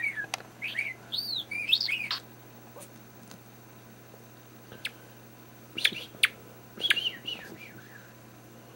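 Pet bird chirping in short, quick arched chirps: a spell of chirps in the first two seconds, a pause, then another spell about six seconds in.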